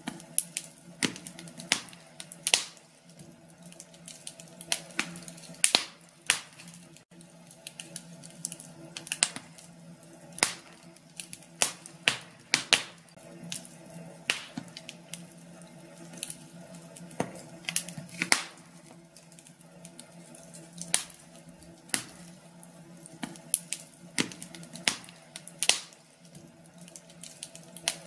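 Wood fire in a fireplace crackling, with irregular sharp pops one to three times a second over a faint steady hum.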